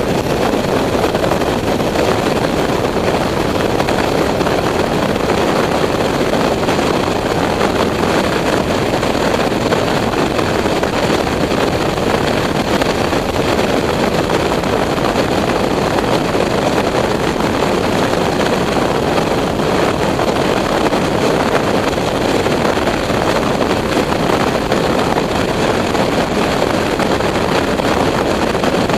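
Steady rush of wind and running noise from a motorcycle on the move, even and unbroken throughout.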